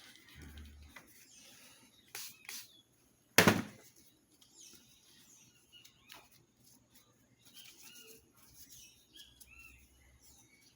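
A few clicks and one loud knock from the vacuum parts being handled, the knock coming a little after three seconds in. Small birds chirp softly through the second half.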